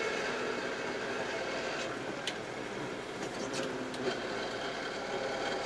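Kioti RX7320 tractor's diesel engine running steadily while pushing snow, with a few brief clicks about two and three and a half seconds in.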